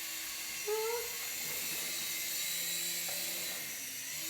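Toy remote-control helicopter's small electric rotor motors whirring steadily with a high buzz, with a short rising tone under a second in.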